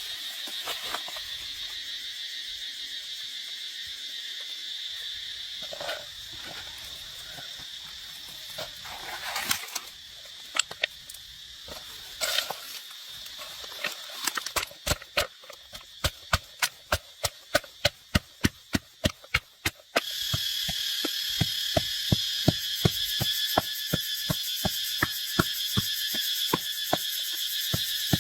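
Regular chopping strokes of a knife or cleaver on a board, about two to three a second, beginning about halfway through. Behind them is a steady high chorus of insects.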